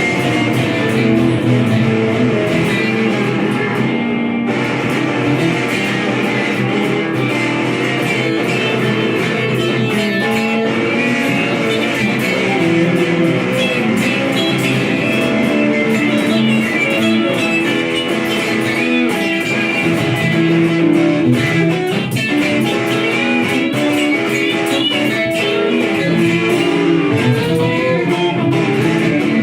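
Improvised blues-rock played on guitars, with melodic lead lines and bent notes.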